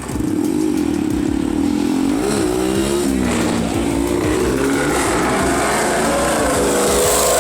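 A car engine revving close by, its pitch rising about two seconds in, falling back, then climbing again and held high near the end.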